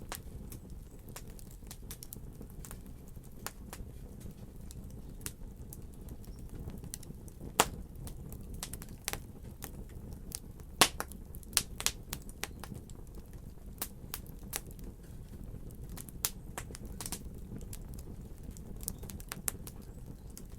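Wood fire crackling in a fireplace: irregular sharp pops and snaps over a steady low rumble of the flames, with two louder pops about a third and halfway in.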